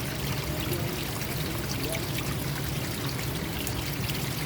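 Water flowing steadily in a forest stream, a constant rush with small gurgles.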